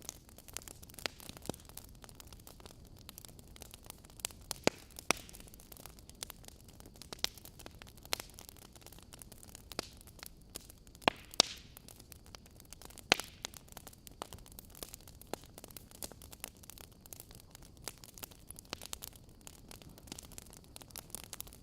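Wood fire crackling: a steady hiss with irregular sharp pops and snaps from burning logs, a few louder pops about halfway through.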